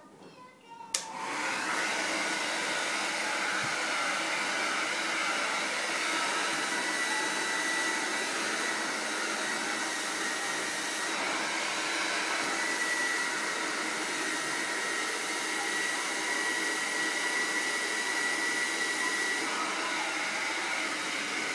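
Hair dryer switched on with a click about a second in, then running steadily with a thin high whine over its blowing noise.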